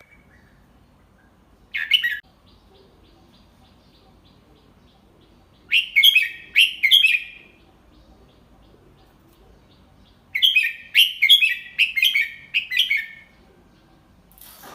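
Red-whiskered bulbul singing a slow, clear tutor song for young birds to copy. A short call comes first, then two phrases of quick, bubbly whistled notes with pauses between them; the second phrase is longer.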